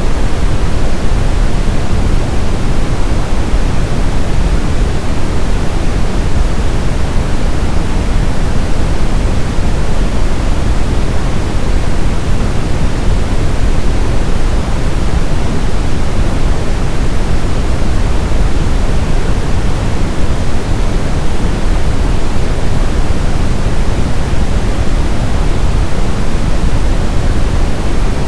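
Brown noise: a steady, loud rushing hiss weighted toward the low end, deep rumble strongest and highs fading, with no change or events.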